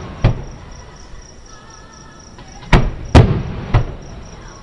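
Aerial firework shells bursting about a mile away: one bang near the start, then three more in quick succession about three seconds in, each trailing off briefly.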